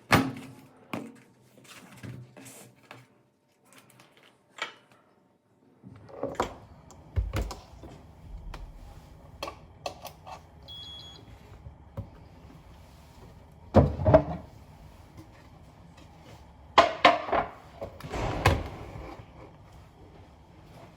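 Knocks and thuds of things being handled and set down, with a low steady hum starting about six seconds in and one short electronic beep near the middle.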